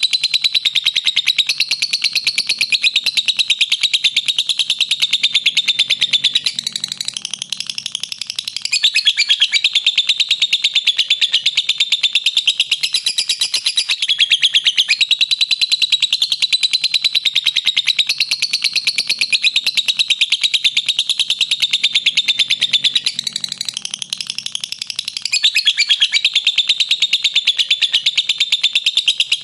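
Lovebird's long 'ngekek' call: a continuous, very fast chatter of shrill, sharp notes that barely breaks, dipping and changing briefly twice before running on.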